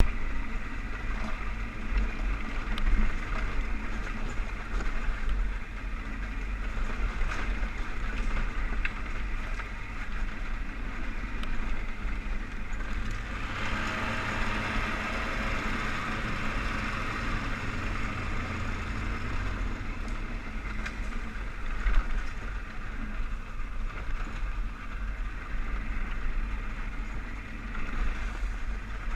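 ATV engine running steadily while riding, a low rumble with a hissing haze over it, growing louder for a few seconds about halfway through. The machine is a 2003 Polaris Sportsman 500 HO 6x6 with a single-cylinder four-stroke engine.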